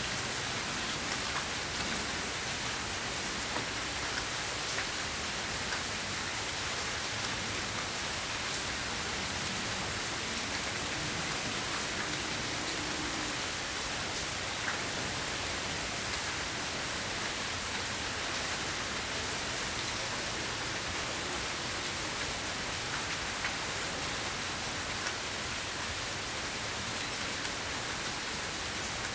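Steady rain falling during a thunderstorm, an even hiss with a few faint drop ticks.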